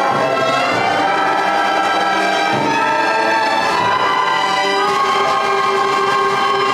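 School concert band of upper-primary students, brass and woodwinds, playing together and moving onto a long held chord about five seconds in.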